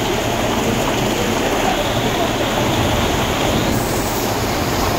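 Heavy rain pouring down steadily in a dense, even hiss; the higher part of the hiss thins slightly about four seconds in.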